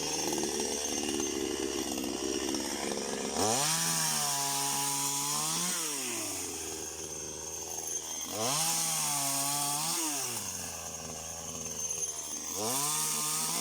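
Chainsaw idling, then revved up to a steady high pitch three times, each for about two seconds, falling back to idle in between.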